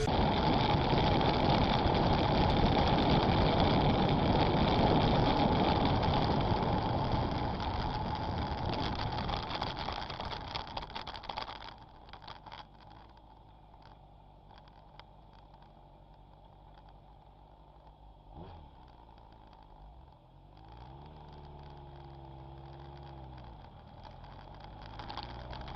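A car driving: steady road and engine noise inside the car. It is loud for the first half, then drops to a quieter engine hum that rises and falls in pitch near the end.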